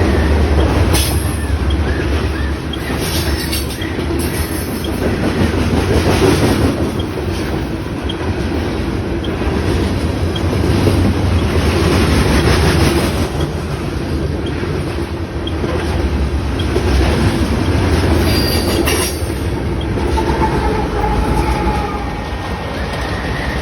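Freight train of grain hopper cars rolling past: a steady rumble with steel wheels clacking over rail joints and brief wheel squeals now and then.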